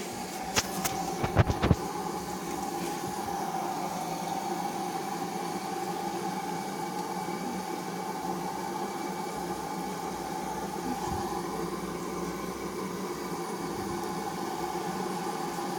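LG WD-80155NUP front-loading washing machine running with a steady mechanical hum. A few sharp clicks and knocks come in the first two seconds.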